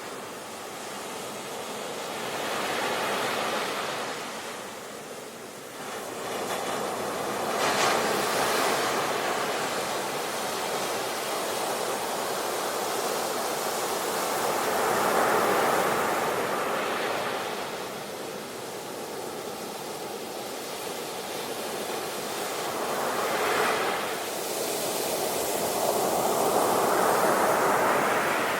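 Sea waves washing onto a shore in slow, repeated swells: each surge builds to a hissing rush and then draws back, with sharper breaks about eight seconds in and again near twenty-four seconds.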